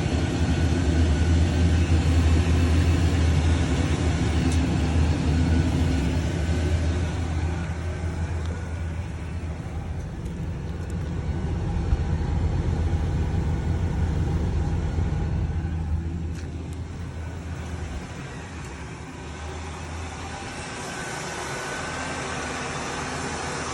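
A 1996 Oldsmobile 88 running with a steady whirring hum that sounds like a heater blower fan, though the blower is switched off; the hum is loudest under the rear of the car and in the trunk. A deep, even drone is strong at first and eases off after about two-thirds of the way through, leaving a faint, steady higher whine.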